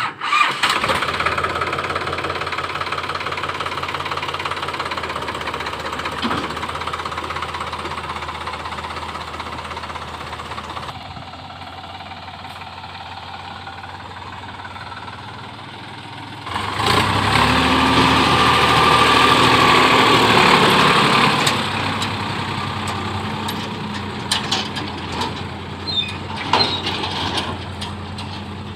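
Heavy diesel machine engine running steadily, then getting much louder for about four seconds some 17 seconds in before settling back, with a few short knocks near the end.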